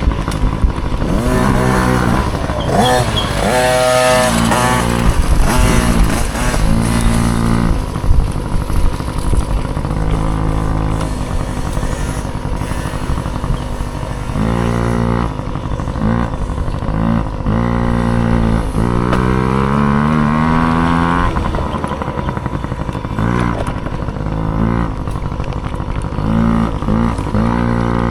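Small dirt bike engine revving hard through a race, its pitch climbing and dropping over and over as the rider opens and closes the throttle and shifts, with one long climbing rev near two-thirds of the way in.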